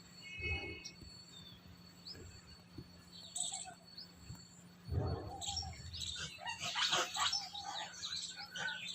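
Birds chirping, many short high calls crowding together in the second half, with a louder low sound about five seconds in.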